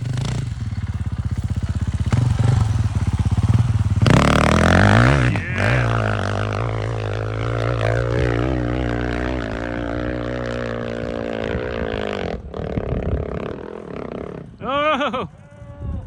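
Dirt bike engine running, with the revs rising sharply about four seconds in, then holding steady. Near the end it gives a quick blip of the throttle.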